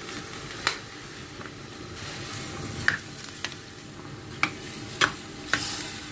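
Rice sizzling in water in a hot stainless steel pot as it is stirred, with about six sharp knocks of a utensil against the pot.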